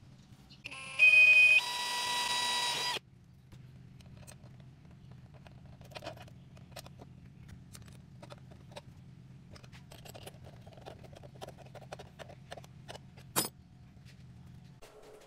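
Electronic beeps stepping in pitch, then a buzzing tone about a second and a half long that cuts off suddenly. After it comes a low steady hum with scattered light clicks and one sharp click near the end.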